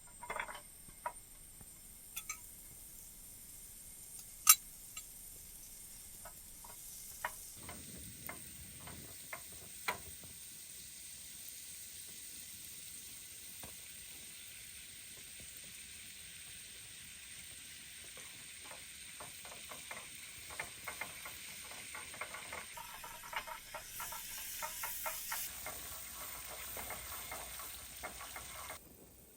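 Food sizzling in a pan, with scattered sharp clicks and clinks of a utensil stirring it; the crackling grows denser and a little louder in the second half.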